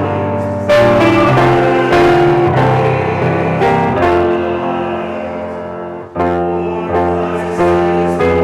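Piano playing slow, held chords; each struck chord fades until the next one, with a short dip about six seconds in before a fresh chord.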